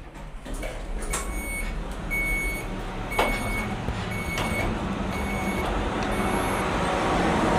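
An electronic warning beeper sounds six times, about once a second, over a low rumble that grows steadily louder.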